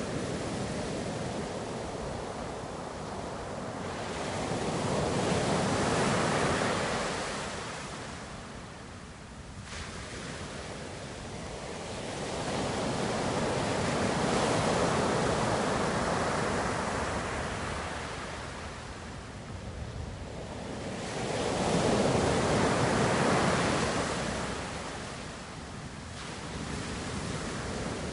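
Ocean surf: waves breaking and washing out in three slow swells, about eight seconds apart, each building up and fading away.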